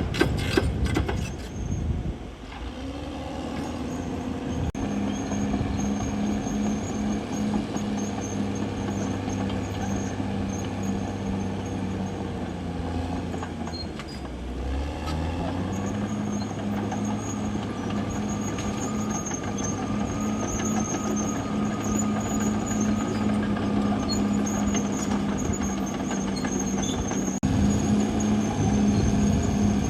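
CAT D6R XL crawler bulldozer's diesel engine running steadily under load, its pitch sagging and then climbing back about halfway through, with a thin high squeal riding over it. A few sharp knocks sound in the first second or two.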